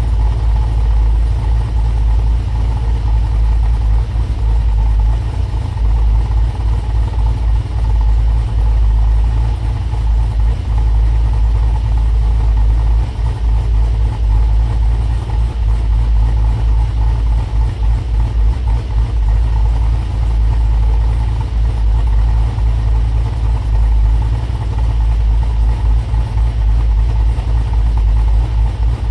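Pontiac G8's V8, fitted with a Cam Motion 219/232 camshaft, idling through long-tube headers, an X-pipe and Hooker Maxflow mufflers. It runs as a deep, steady exhaust note with a choppy, uneven lope.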